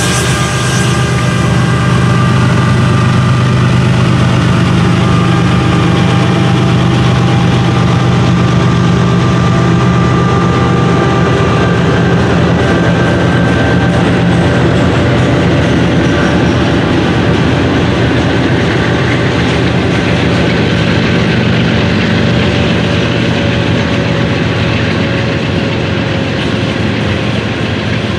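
Norfolk Southern freight train passing: the lead diesel locomotives' engines run loud and steady as they go by. About halfway through the engine sound fades to the steady rolling rumble of coal hopper cars' wheels on the rails.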